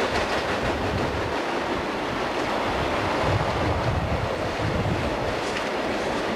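Union Pacific freight train's boxcars rolling past: a steady rushing rumble of wheels on rail, with wind buffeting the microphone.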